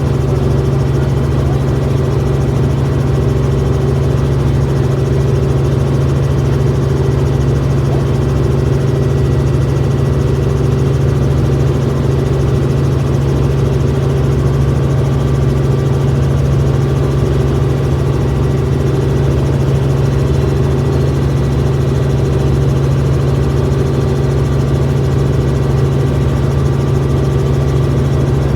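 Steady, loud drone of a helicopter's engine and rotors, heard from inside the cabin, with a strong low hum that does not change.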